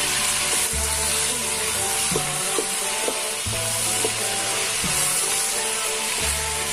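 Chicken pieces and spice paste sizzling in hot oil in a pot, stirred with a wooden spatula, with background music.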